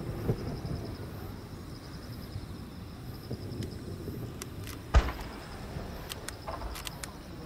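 Fireworks display between shells: a steady low rumble, then one sharp firework bang about five seconds in, with a few faint crackles after it.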